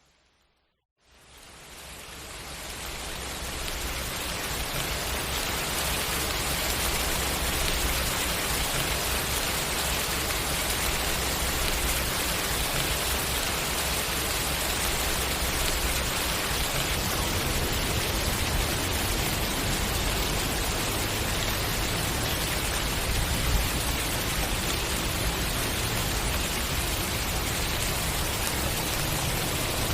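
Steady rain, a dense even hiss with no distinct drops or thunder, fading in from silence over the first few seconds.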